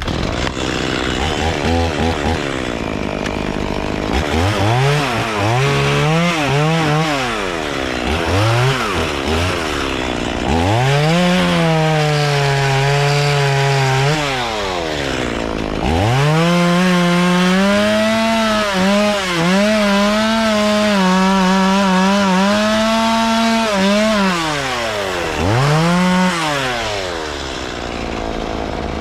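Two-stroke chainsaw revving in short bursts for the first several seconds, then running through two long cuts in walnut wood, its pitch held lower and wavering under load, with a last brief rev near the end.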